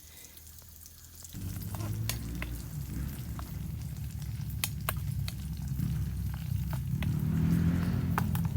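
Calabresa sausage frying in a pan on a stove at high heat, sizzling with scattered sharp pops. A louder low hum comes in about a second in and grows.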